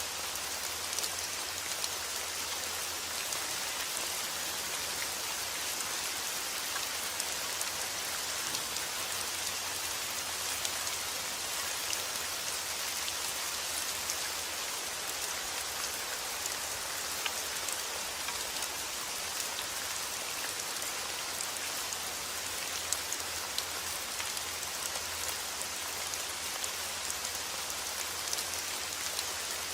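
Steady rain falling on a surface, an even hiss peppered with fine drop ticks, with no let-up.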